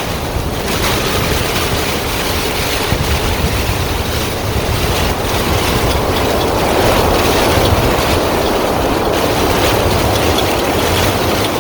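Storm-force squall wind rushing across a sailboat and buffeting the microphone with a heavy low rumble, swelling louder about two-thirds of the way through.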